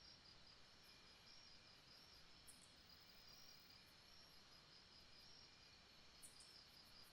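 Faint jungle ambience: insects chirring steadily in a high, pulsing band, with a couple of short, very high chirps about two and a half seconds in and again near the end.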